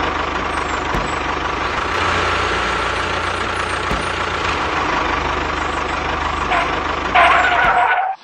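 Engine sound effect of a heavy vehicle, like a truck or tractor, running steadily with a low rumble. It gets louder for about the last second, then cuts off suddenly.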